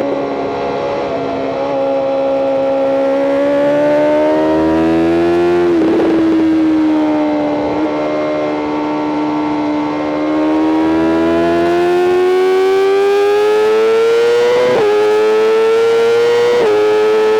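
BMW M 1000 RR's inline-four engine at high revs, heard onboard: the revs dip briefly, then climb steadily under throttle. Quick upshifts briefly break the engine note about six seconds in and twice near the end.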